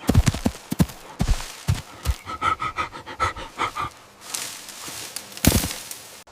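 Animal sounds: irregular thuds, a quick run of short pitched calls about two seconds in, and a rushing noise near the end.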